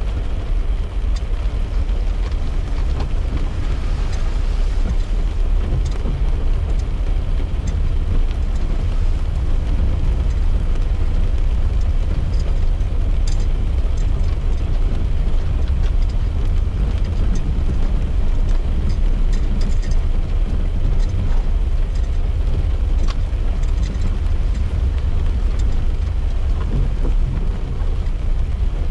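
Steady low road and engine rumble heard inside a moving car's cabin, with scattered light raindrop ticks on the glass and roof.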